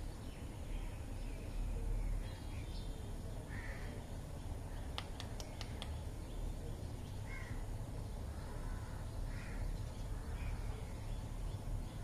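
A few short bird calls, a couple of seconds apart, over a steady low rumble, with a quick run of clicks about five seconds in.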